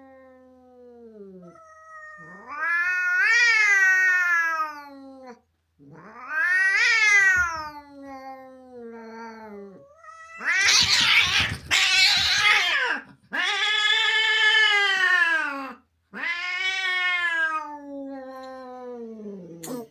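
Domestic cat yowling over and over in long, drawn-out cries that rise and then fall, with two harsher screams about halfway through. It is an exaggerated protest: nothing is actually being done to the cat yet.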